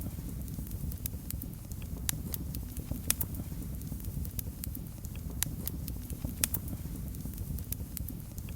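Fireplace fire crackling: irregular sharp pops and clicks over a steady low rumble of burning.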